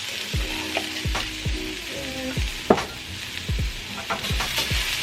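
Washed rice sizzling in hot olive oil with sautéed peppers and onions in a skillet as it is stirred, with one sharp clink about two-thirds of the way through. Background music with a deep, regular bass beat plays underneath.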